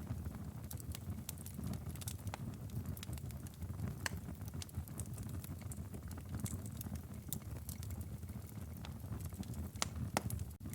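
Wood fire burning in a fireplace: irregular sharp crackles and pops from the burning firewood over a low, steady rumble of the flames.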